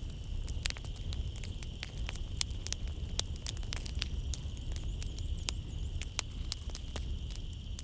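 Wood fire crackling in a fireplace, with frequent sharp pops at irregular intervals over a low rumble of flames, and a steady high-pitched drone of night insects behind it.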